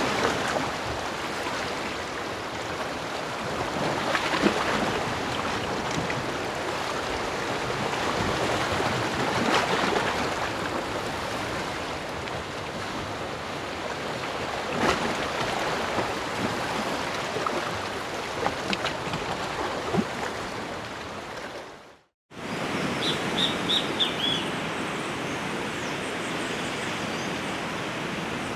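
Ocean surf breaking and washing onto a beach in slow swells. About 22 seconds in the sound cuts off abruptly, then a steadier rushing background follows with a bird chirping quick runs of high notes.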